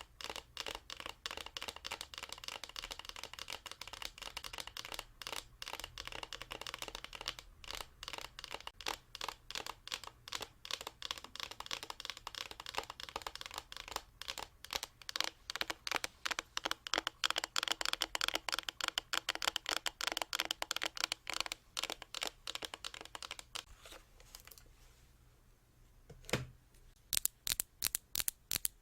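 Rapid, even tapping of fingers on objects for ASMR, several taps a second. It stops briefly about 25 seconds in, gives a single tap, then resumes quickly near the end.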